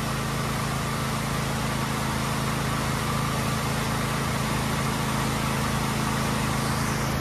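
Waterfall: a steady, unbroken rush of falling water with a low, even rumble.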